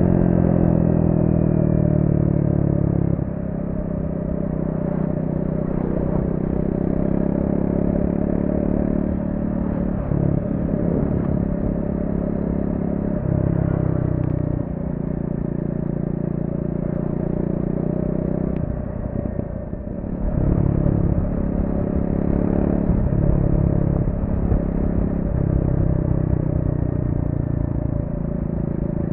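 Triumph Speed 400's single-cylinder engine through its stock exhaust, running under way. The engine note rises, falls and steps in pitch several times as the throttle is rolled on and off. It dips briefly a little past halfway, then picks up louder again.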